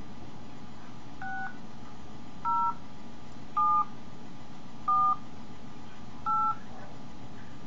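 Phone keypad being dialled: five separate touch-tone (DTMF) beeps, each a short two-note tone, spaced about a second and a bit apart, over a steady background hiss.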